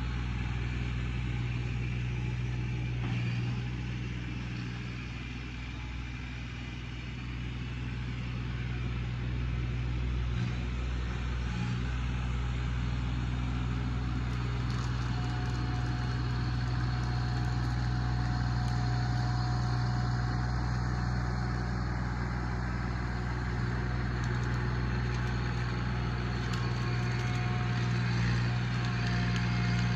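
Tractor engine running steadily, easing off slightly a few seconds in and then picking back up.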